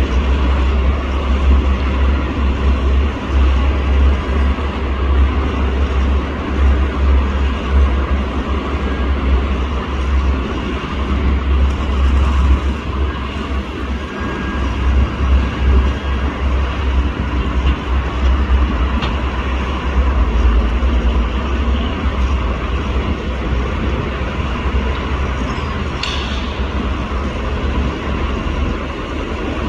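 Steady mechanical noise with a heavy low rumble, and a brief sharper sound near the end.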